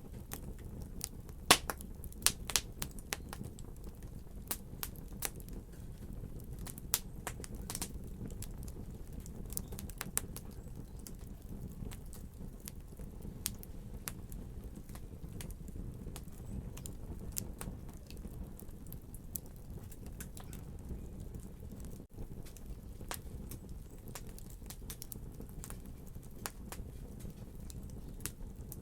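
Wood fire crackling: frequent sharp pops and snaps over a low, steady rumble of burning, with the pops coming thicker in the first half. The sound drops out for an instant about two thirds of the way through.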